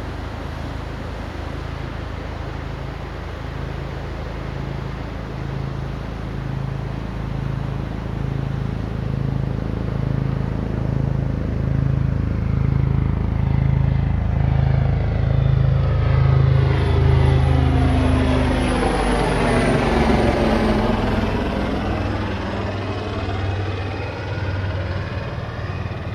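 Helicopter flying past: the rotor and engine noise builds steadily, is loudest about two-thirds of the way through, drops in pitch as it passes, then fades a little.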